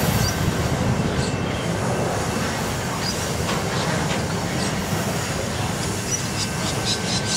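Freight train wagons rolling past at steady speed: a continuous noise of steel wheels running on the rails.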